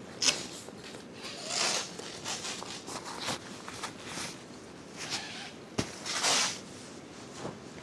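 Irregular rustling and scuffing handling noises, with a sharp knock a little before six seconds in.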